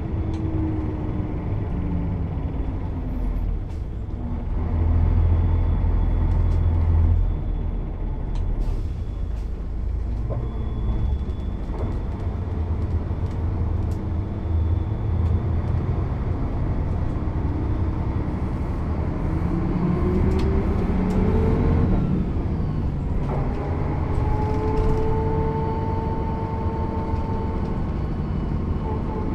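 Mercedes-Benz O 407 bus's inline-six diesel engine running under way. Its pitch climbs about two-thirds of the way through, breaks off at a manual gear change, then settles to a steadier, higher note.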